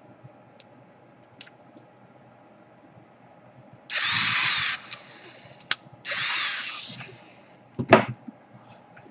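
Two short bursts from a small power tool, each lasting about a second, with a sharp knock near the end.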